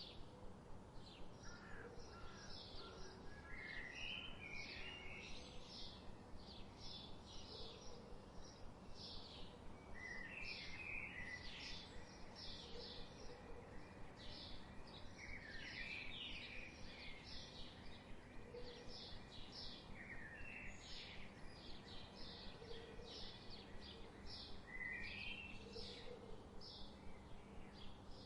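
Faint birdsong ambience: birds chirping in a quick run of short, high calls, broken now and then by brief warbling phrases, over a soft steady background hiss.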